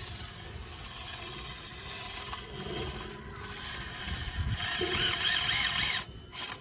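Axial SCX24 micro RC crawlers' electric motors and gears whining under throttle, with tires scraping and grinding over rocks. The whine rises and falls several times near the end, the loudest part.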